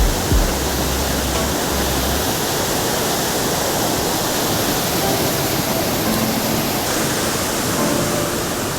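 Waterfall: a steady rush of water falling over rocks, with a couple of low bumps at the start. Faint background music comes in during the second half.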